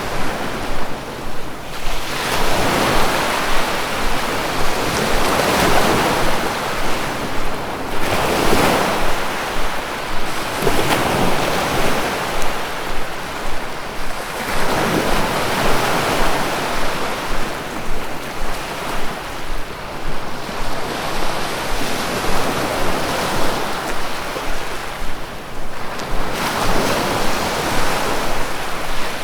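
Ocean surf: waves breaking one after another, a swell of rushing water about every three to four seconds over a steady wash.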